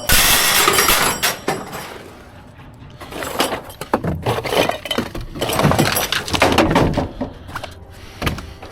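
Scrap being handled: a loud clattering crash in the first second or so, then a run of irregular clanks, knocks and clinks.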